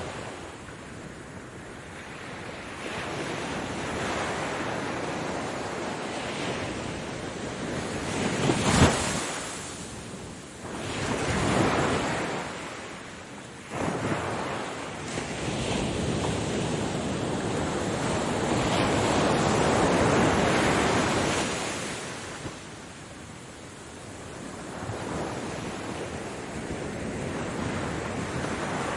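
Ocean surf breaking on a beach, the rush of the waves rising and falling in repeated surges, with a sharp crash about nine seconds in.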